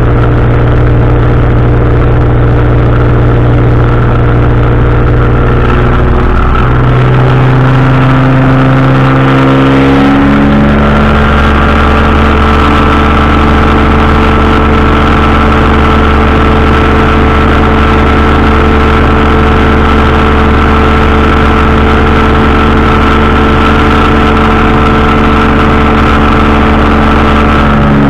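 Powered parachute's engine and propeller running loud and steady in flight. The engine note shifts between about six and eleven seconds in, then holds steady again.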